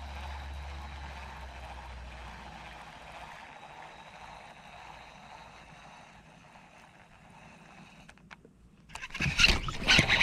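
Faint steady outdoor background with a low hum that fades in the first few seconds. About nine seconds in, loud sudden splashing: a bass striking the topwater buzzing toad lure at the surface close to the kayak.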